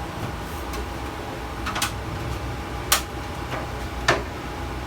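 Three sharp clicks or knocks, about a second apart, over a steady low hum.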